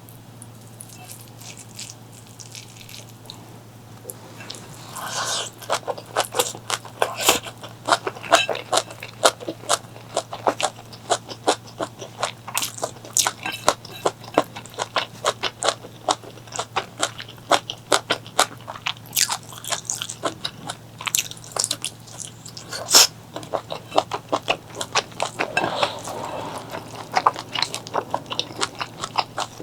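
A person chewing and biting food close to the microphone, with rapid wet, crunchy clicks of the mouth and teeth that start about five seconds in. A steady low electrical hum runs underneath.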